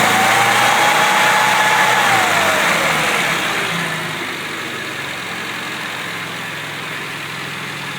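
Car engine held at raised revs, then falling back about three seconds in and settling into a steady idle.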